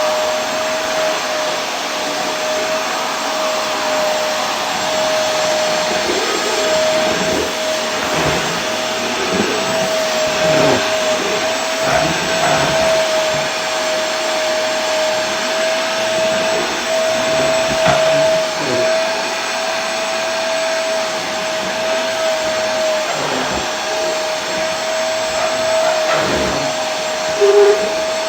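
Vacuum cleaner running continuously: a steady rushing hiss with a constant motor whine through it, wavering slightly now and then, and a brief louder blip near the end.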